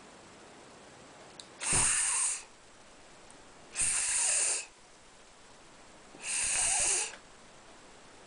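A person hissing three times in long breathy "sss" sounds, each about two-thirds of a second with a pause between, in imitation of a snake.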